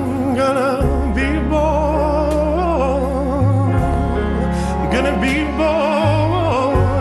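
Slow ballad: a high, tremulous male voice with a wide vibrato holds long drawn-out sung notes without clear words, over low sustained chords that shift every second or two.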